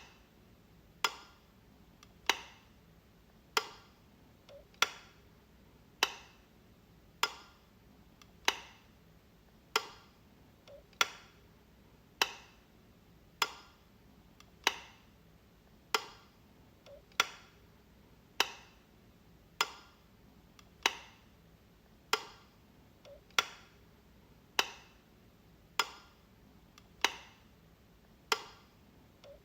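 Wall light switch being flicked, one sharp click about every second and a bit in a steady repeating rhythm. Some clicks have a fainter small click just before them.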